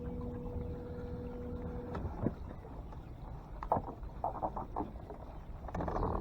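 Electric trolling motor humming steadily, then cutting off about two seconds in. Scattered knocks and a short run of quick clatters follow as the boat drifts.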